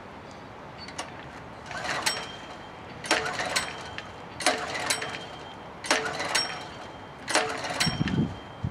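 Portable generator's small gasoline engine being pull-started: five recoil-starter pulls about a second and a half apart, each a short whirr of the engine turning over, and it never fires. The tank is out of fuel.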